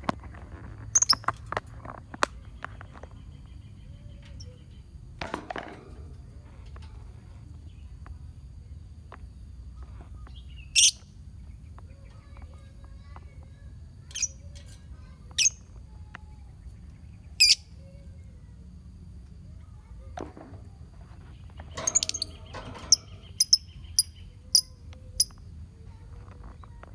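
Lovebirds in a colony giving short shrill calls every few seconds, then a quick run of chirps about twenty-two seconds in, over a low steady hum.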